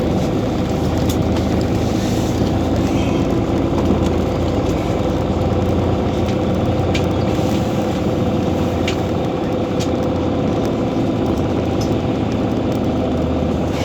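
Scania OmniCity city bus running steadily on the move, its engine hum constant, with a few light clicks and rattles.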